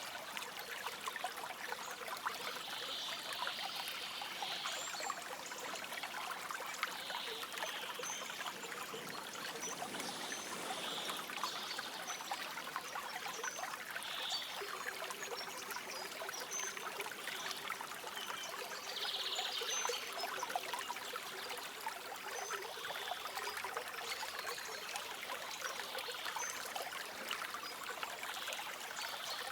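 A stream flowing steadily, trickling and splashing, with short bird calls now and then.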